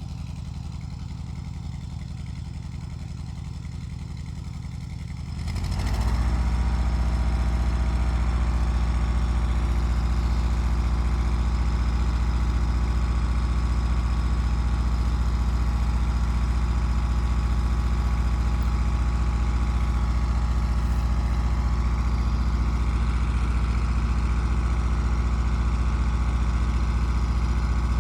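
Allis-Chalmers tractor engine idling, then throttled up about five and a half seconds in and running steadily at a higher, louder speed.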